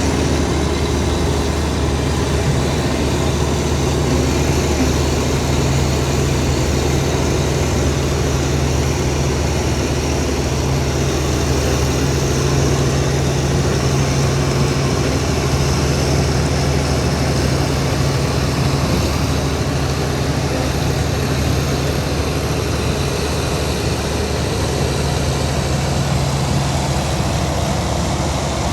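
Heavy diesel engine of earthmoving equipment running steadily, a continuous low drone with no sudden changes.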